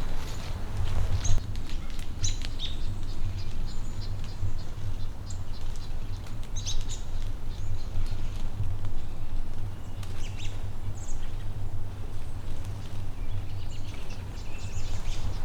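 Small birds chirping in short high calls, scattered throughout, over a steady low rumble.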